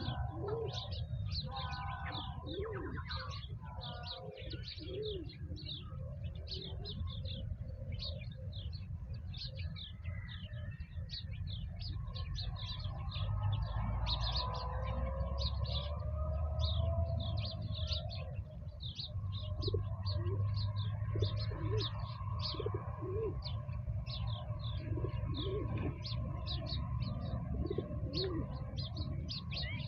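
Outdoor birdsong: many small birds chirping rapidly and continuously, with pigeons cooing in low repeated phrases near the start and again in the second half, over a steady low rumble.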